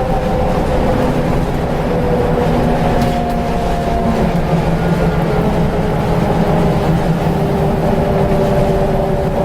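Inside a Scania L94UB Wright Solar bus under way: the diesel engine running with the whine of its ZF automatic gearbox, several steady whining tones over a low rumble that shift slowly in pitch.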